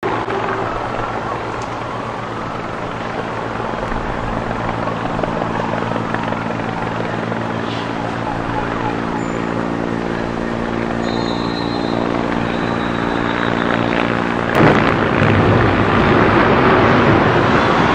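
Helicopter running with a steady, many-toned engine and rotor drone over a noisy background. About fourteen and a half seconds in, the drone stops suddenly and gives way to a louder rushing noise.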